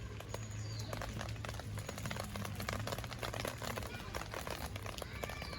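Wood campfire crackling in a small fire pit: many irregular sharp pops and snaps in quick succession, over a steady low hum.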